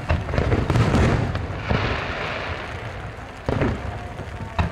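Aerial fireworks shells bursting: a series of deep booms, several close together about a second in, a hiss about two seconds in, and more booms near the end.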